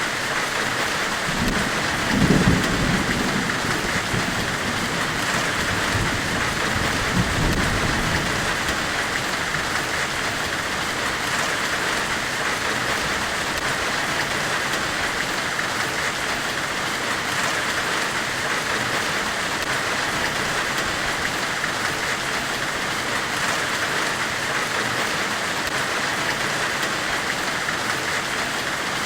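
Steady white-noise hiss in the style of forge-weld hiss, brightest in the upper middle range, with a low rumble swelling and fading during the first several seconds.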